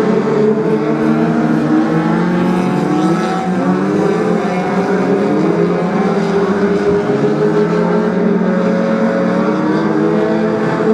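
Several BriSCA F2 stock car engines racing together, their pitches overlapping and repeatedly rising and falling as the cars rev up and ease off around the track.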